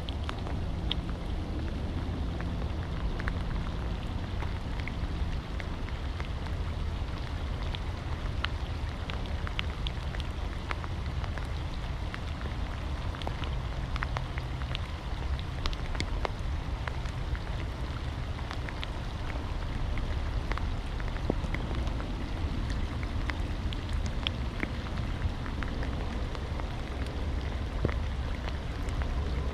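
Steady rain falling, with scattered sharp ticks of individual drops striking close by over a constant low rumble.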